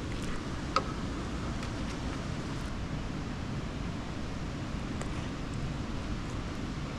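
Steady low rumbling noise of wind on the microphone, with one faint click about three quarters of a second in.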